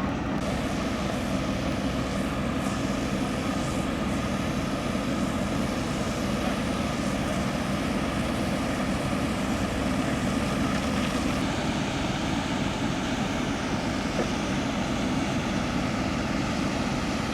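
Steady engine drone with a low rumble, holding an even level throughout.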